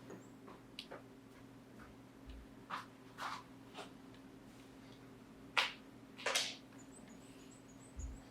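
Irregular light clicks and taps of small parts being handled, with two louder knocks a little past halfway, over a steady low hum.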